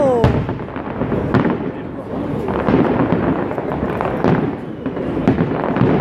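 Fireworks display going off: a run of booms and bangs about a second apart over steady crackling, with a falling whistle right at the start.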